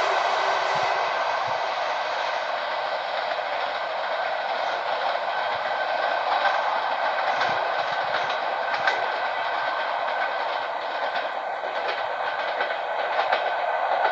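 Passenger train running away down the track: a steady rolling hiss of wheels on rails that fades slightly at first and then holds, with a few faint clicks of wheels over rail joints.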